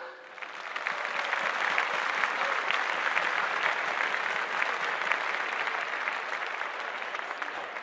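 Theatre audience applauding: many hands clapping together, building up over the first second and holding steady.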